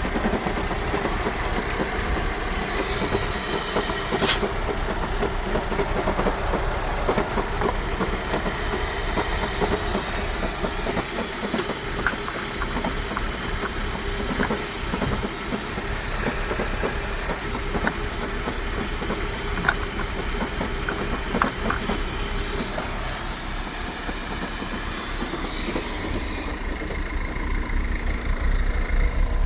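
BMW E60's 2.2-litre M54 inline-six (engine code 226S1) running at idle in a test run. Near the end the sound turns deeper and more pulsing.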